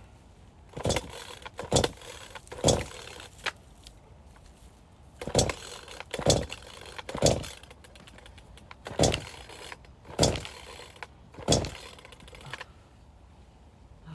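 Firewood being split by hand: ten heavy strikes into logs, in three runs of three or four blows about a second apart, each a sharp knock with a short ring.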